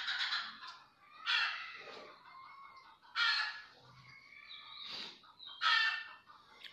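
A bird calling four times, harsh calls about every two seconds, with fainter sounds between them.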